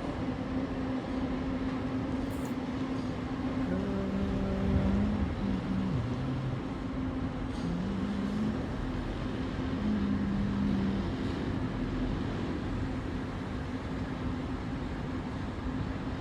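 A large engine running steadily with a constant hum, with a few short, flat pitched tones over it around 4, 8 and 10 seconds in.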